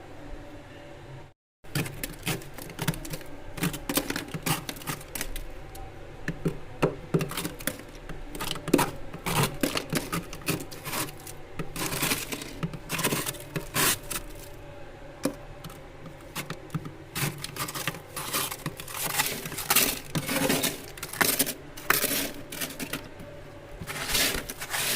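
A spoon scraping and chipping water-softened ice off the inside of a deep freezer: rapid, irregular scrapes and knocks, with a brief silent dropout about a second and a half in.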